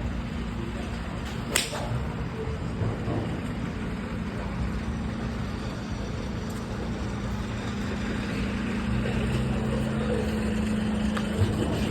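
A 5-iron striking a golf ball once, a sharp crack about a second and a half in, on a knockdown shot. A steady low hum runs underneath.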